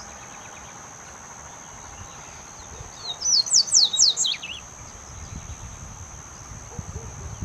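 Double-collared seedeater (coleiro) singing one short, fast phrase of high, sharply sliding whistled notes about three seconds in, over a steady high-pitched tone.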